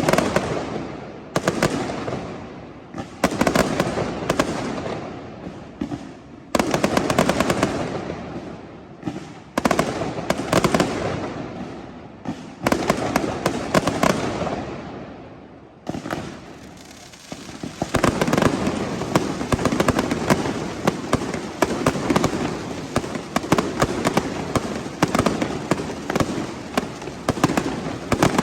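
Fireworks going off in rapid volleys of crackling bangs. Each wave starts suddenly and dies away over a second or two, and from a little past halfway the bangs run together into an almost continuous barrage.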